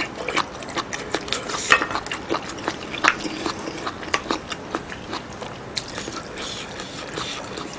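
Close-miked eating sounds: chewing and biting a mouthful of abalone curry and rice, with many irregular sharp clicks, along with a wooden spoon scraping and tapping the curry plate as it scoops.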